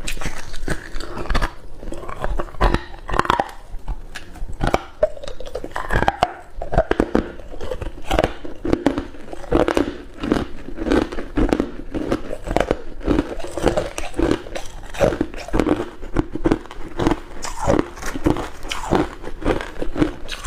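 Hard ice cubes being bitten and chewed close to the microphone: dense, irregular crunching and cracking.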